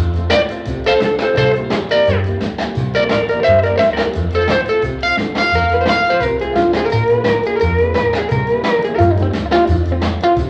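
Instrumental break in a 1960 rockabilly record: an electric lead guitar plays sustained, bending notes over a walking bass line and a steady drum beat.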